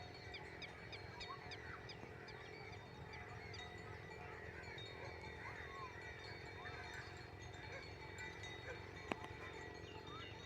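Birds chirping faintly: many short chirps and a quick run of repeated falling notes in the first two seconds. There is a single sharp click about nine seconds in.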